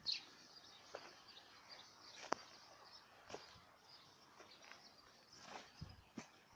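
Faint outdoor nature ambience: a steady, high chirring of insects with small bird chirps, and a few short sharp clicks.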